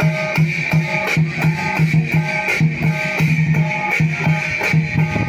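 Lion dance percussion music: a large drum beating a fast, even rhythm of about three to four strokes a second, with a steady metallic ringing above it.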